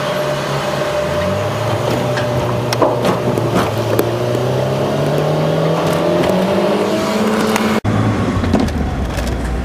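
Car engine heard from inside the cabin, pulling away and accelerating with its pitch rising steadily as it drives off a ferry up the landing ramp, with a few knocks and jolts along the way. Near the end the sound cuts suddenly to a lower, steadier engine sound.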